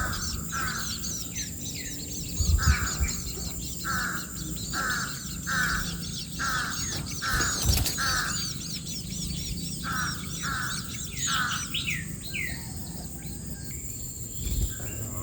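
Wild birds calling: one bird repeats a short call roughly every half second to second, while many quick high chirps and twitters run above it. Two brief low thumps stand out, about a third of the way in and again about halfway.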